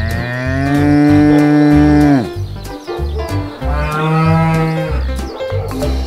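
Cow mooing twice: one long moo of about two seconds that drops off at its end, then a shorter second moo a little over a second later, over background music with a steady beat.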